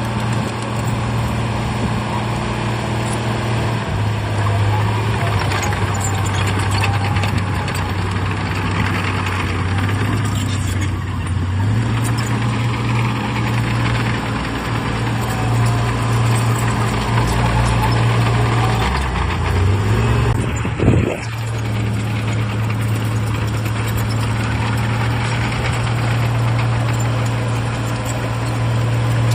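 Heavy diesel earthmoving machinery running under load, its engine note shifting in pitch several times as it works. A single sharp sound stands out about two-thirds of the way through.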